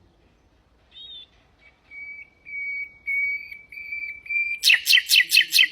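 Nightingale singing a phrase: a short high note, then about five drawn-out whistles on one steady pitch, each louder than the last. The phrase ends in a loud, fast rattling trill of about six strokes.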